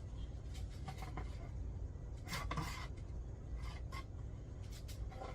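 Metal scraping and clinking of a chainsaw guide bar and chain being handled and refitted, in several short scrapes, the loudest a little past two seconds in, over a steady low hum.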